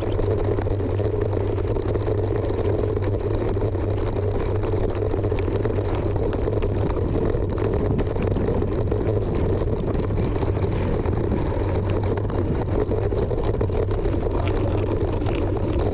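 Steady wind rumble on the microphone with rattle and rolling noise from a mountain bike being ridden on a dirt motocross track.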